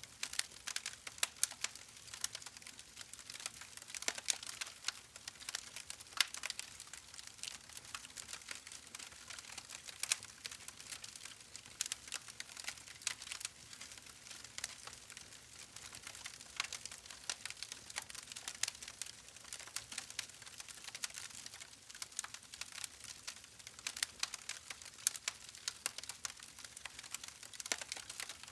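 Campfire crackling, with irregular sharp snaps over a soft steady hiss.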